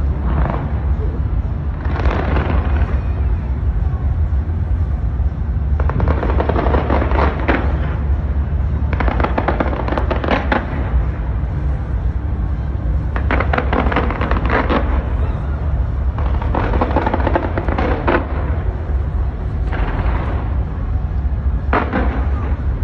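Fireworks display going off: volleys of rapid crackling every few seconds over a steady low rumble.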